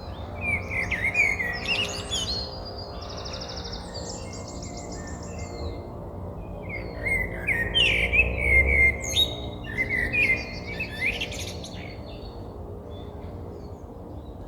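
A songbird singing outdoors in spring: two bouts of quick song phrases with high trills, the first in the opening few seconds and the second about halfway through, over a faint steady low hum.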